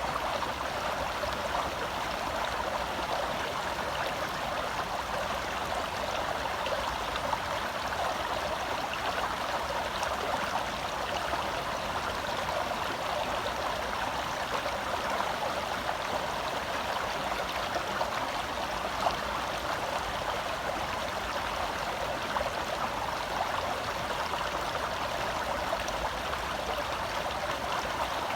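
Forest stream flowing over rocks: a steady, unbroken rush of running water.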